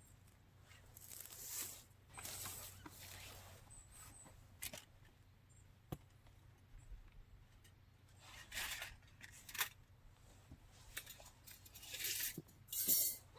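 Intermittent rustling and scraping in short irregular bursts, with a few sharp clicks; the loudest bursts come near the end.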